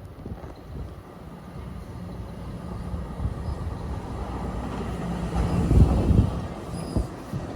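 NJ Transit passenger train approaching, a low rumble with a steady hum that grows steadily louder, peaking in heavy low thumps about six seconds in as it draws near.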